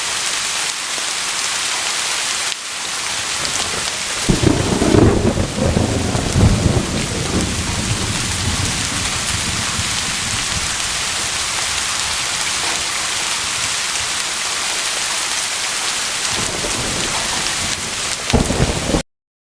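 Steady heavy rain hissing. A low rolling rumble of thunder starts about four seconds in and lasts several seconds, and a second short rumble comes near the end, just before the sound cuts off abruptly.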